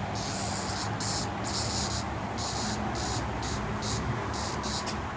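Steady low engine hum and road traffic noise, with a high hiss that cuts in and out every half second or so.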